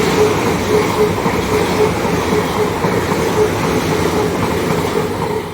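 Passenger train running through the station, a loud, steady rumble of wheels on rail that starts to die away at the very end.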